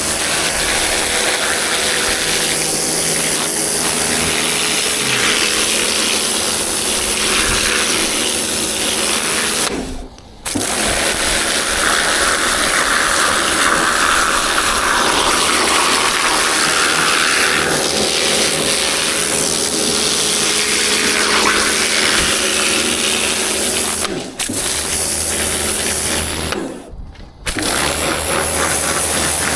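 A motor-driven machine running steadily and loudly, with short breaks about a third of the way in and twice near the end.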